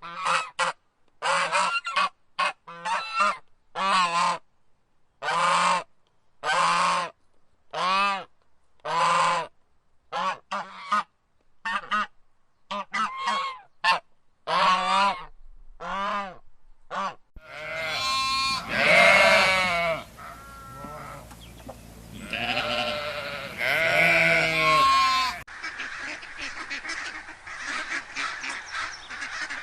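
Geese honking: a steady run of separate, evenly paced honks, then louder, longer calls, and near the end a denser stretch of many quick calls over one another.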